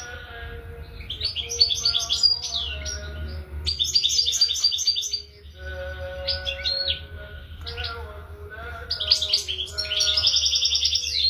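European goldfinch singing: fast, twittering phrases of rapid high notes, broken by short pauses, over a steady low hum.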